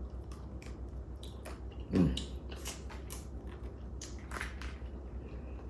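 Eating whole crab: chewing with scattered sharp cracks and clicks as the shell is bitten and broken.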